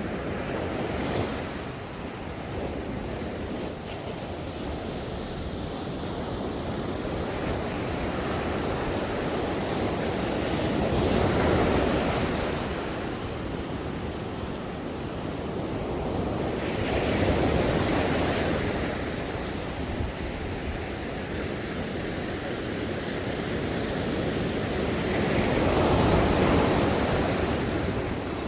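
Ocean waves breaking and washing up a beach, swelling and ebbing about every six to eight seconds, with three louder breakers.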